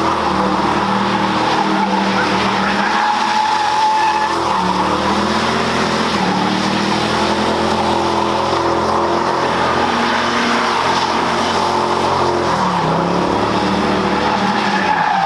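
A car drifting or doing donuts: the engine is held at high revs, rising and falling, under a continuous tire squeal.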